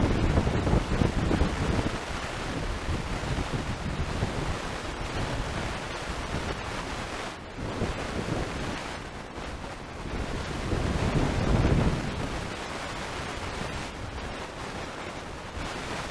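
Wind buffeting the microphone in gusts, strongest at the start and again about eleven seconds in.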